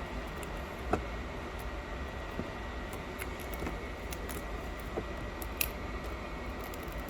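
Steady blowing of a hot air rework station heating the phone, with a few small sharp clicks and taps of hand tools, the clearest about a second in and about two-thirds of the way through.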